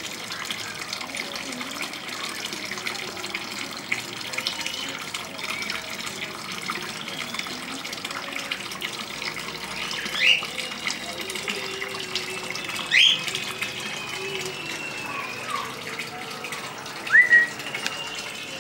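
Cockatiel giving a few short, sharp chirping calls, two in quick succession near the end, over a steady hiss.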